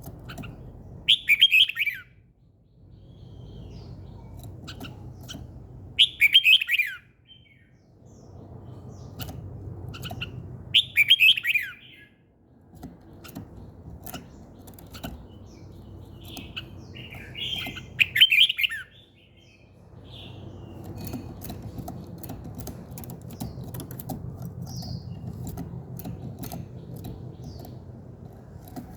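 A songbird singing short, loud, rapid phrases that fall in pitch, four times at about five-second intervals, with faint sharp clicks and a low steady background hum between the phrases.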